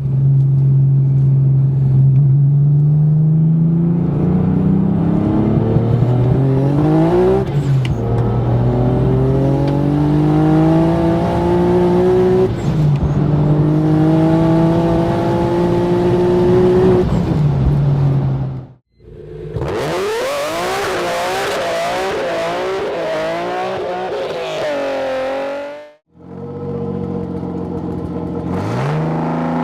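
BMW E46 engine accelerating hard through the gears, its pitch climbing and dropping back at each of about three upshifts. After a cut, the engine revs up and down in quick uneven swings for several seconds. Then comes another clip of the engine running and pulling, its pitch rising near the end.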